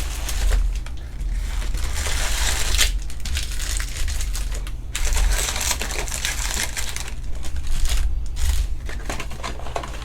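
Irregular crinkling and rustling of trading-card pack wrappers and cards being handled and opened, over a steady low hum.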